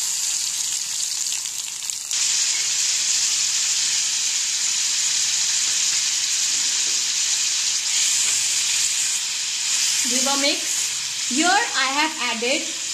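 Chopped tomatoes frying in hot oil in a kadai: a steady sizzle that jumps louder about two seconds in as the tomatoes hit the oil, with a spatula stirring them near the end.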